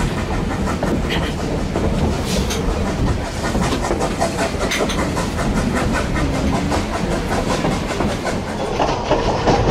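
Durango & Silverton steam train running along the narrow-gauge track: steady rolling noise with wheels clicking and knocking over the rail joints.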